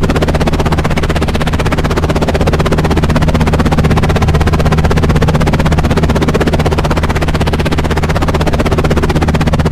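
Helicopter rotor chopping in a rapid, even beat over a steady low engine drone.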